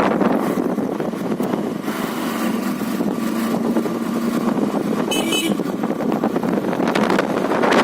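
Motorcycle engine running steadily while riding, with wind rushing over the microphone. A brief high-pitched chirping sound cuts in about five seconds in.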